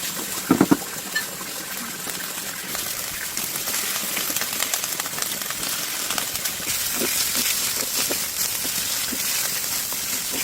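Steady rain falling, with a quick cluster of loud knocks about half a second in and a few softer knocks later.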